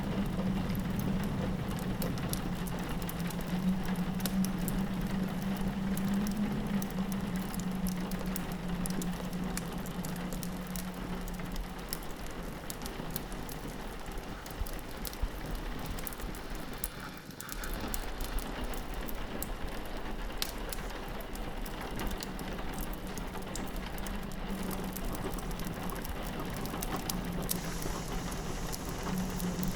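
Rain pattering steadily on a window mixed with the small pops and crackles of a wood fire, over a low steady drone of wind. The whole sound dips for a moment about halfway through.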